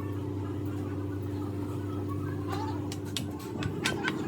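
A motor hums steadily and drops away about three seconds in. Near the end, sharp metal-on-metal taps begin, coming faster, like a hammer striking metal parts.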